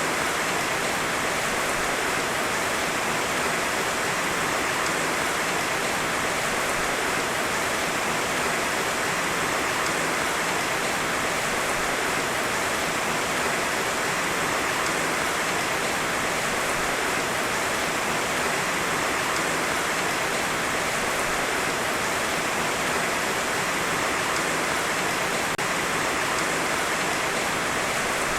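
Heavy rain falling steadily: an even, unbroken hiss of rain with no thunder.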